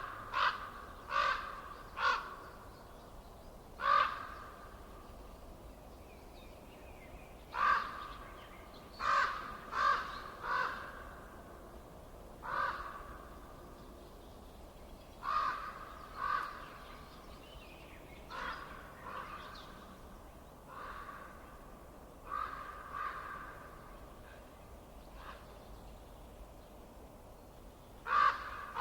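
A bird calling repeatedly in short calls, singly or in quick runs of two to four, over a faint steady hiss.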